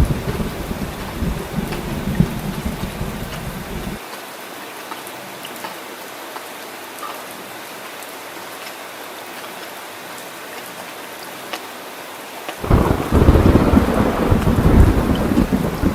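Steady heavy rain with rolling thunder. The low thunder rumble stops suddenly about four seconds in, leaving only the hiss of rain, then comes back abruptly and louder near the end.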